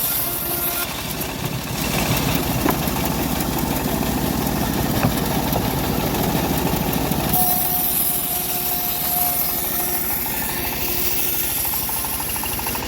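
Engine-driven bandsaw sawmill running steadily, its motor pulsing fast, with a hissing, whining cut heard through the middle and later part.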